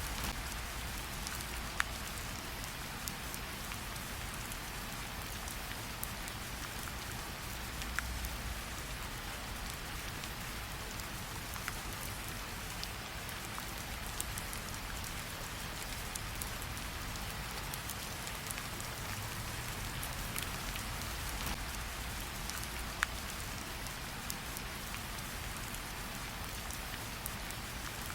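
Steady rain falling, with a campfire crackling under it: a low rumble and a sharp pop now and then.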